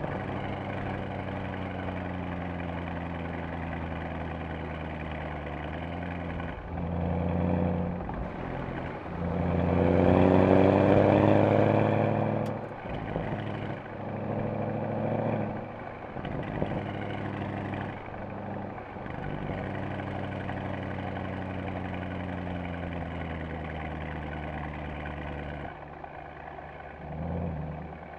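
Mercedes-AMG SL63's V8 engine and exhaust, running at a steady pitch, then accelerating with the pitch climbing, briefly at about seven seconds and hardest and loudest at about ten seconds. It then eases back to a steady drone, with a short rev near the end.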